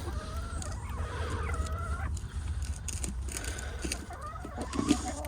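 Backyard hens clucking and calling, with one long, drawn-out wavering call in the first two seconds and shorter calls near the end. A steady low rumble runs underneath, and there is a single knock about five seconds in.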